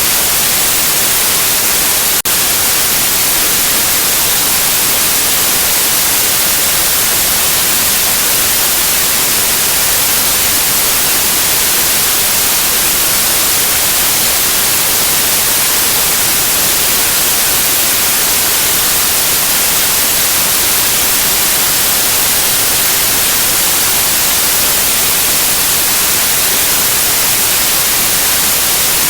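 Steady, loud white noise, an even hiss heaviest in the treble, played as a soothing sound for a baby's sleep. It has one momentary dip, a faint click, about two seconds in.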